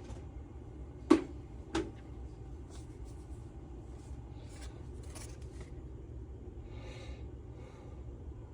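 Two sharp clicks a little over a second in, half a second apart, then light scraping and rustling as small engine parts are handled on a bench, over a steady low hum.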